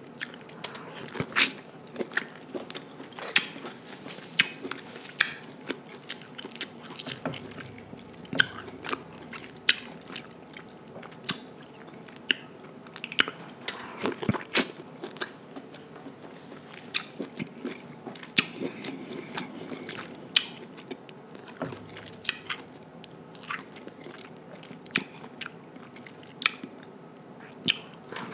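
Close-miked chewing and biting of king crab leg meat dipped in sauce, with many sharp, irregular mouth clicks throughout.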